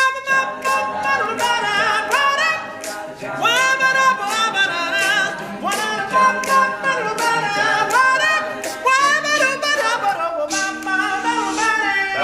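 Male a cappella group singing the song's instrumental break without words, voices in close harmony, with vocal percussion keeping a steady beat.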